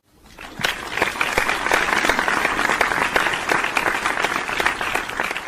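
Applause: many hands clapping in a dense patter that fades in from silence and fades out near the end.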